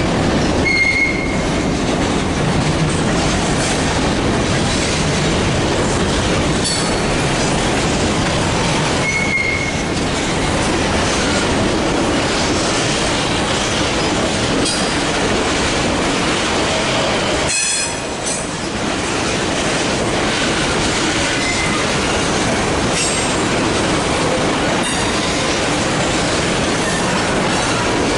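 Freight train cars rolling past with steady wheel-on-rail noise and clickety-clack over the rail joints. Short high wheel squeals come about a second in and again about nine seconds in.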